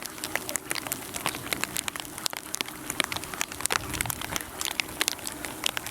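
Freezing rain ticking and pattering on ice-glazed branches and ground: a dense, irregular crackle of many small clicks.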